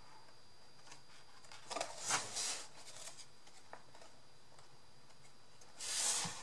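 Paper being handled: two short rustling bursts, about two seconds in and again near the end.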